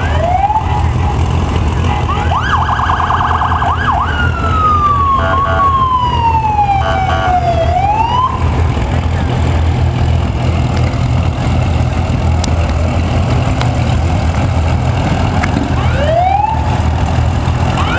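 Emergency vehicle siren sounding in short spells: quick rising whoops, a burst of rapid yelps, and a long falling-then-rising wail, over a steady low drone of heavy engines.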